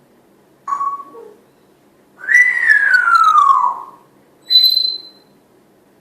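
African grey parrot whistling: a short note, then a long whistle that slides steadily down in pitch, then a short high note near the end.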